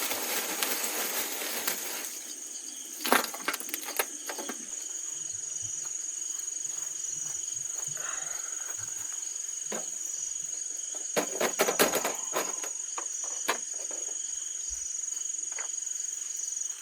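Night insects trilling steadily in one high tone, with scattered sharp clicks and clatters, in clusters about three seconds in and again after about eleven seconds.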